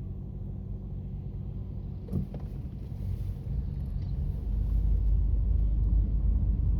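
Car running, heard from inside: a steady low engine hum with a brief click about two seconds in, then a low rumble that swells louder from about four and a half seconds in.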